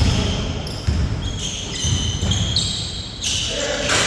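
A basketball bouncing on a court, a deep thud about once a second, with short high squeaks over it.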